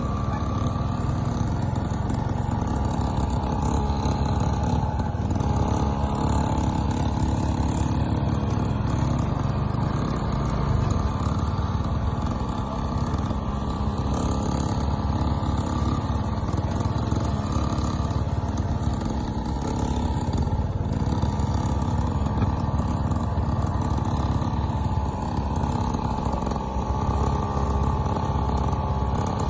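A child's small motorcycle running steadily, its engine note holding at a fairly even pace.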